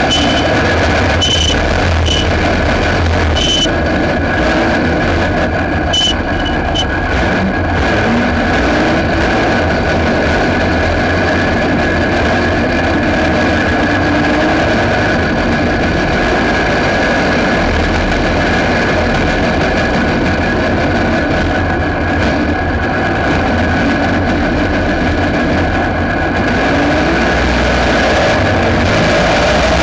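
Aixro rotary (Wankel) kart engine running continuously under racing load, heard close-up from a camera mounted on the kart, with a dense low rumble and a few short high chirps in the first several seconds.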